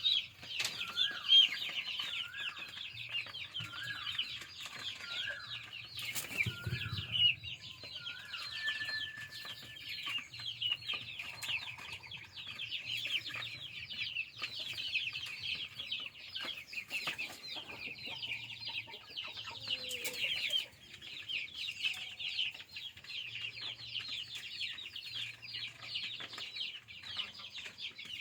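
A flock of chickens clucking and peeping without a break, with one bird repeating a call about once a second for the first several seconds. A single dull thump comes about six to seven seconds in.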